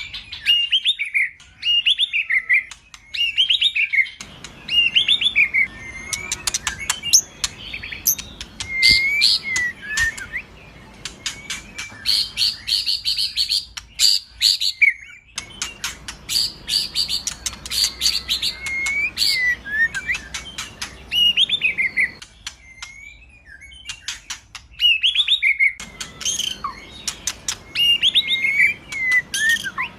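White-rumped shama (murai batu) singing: rapid, loud whistled phrases that sweep up and down, mixed with sharp ticking notes and buzzy trills. The recording is spliced, with the background hiss changing abruptly several times.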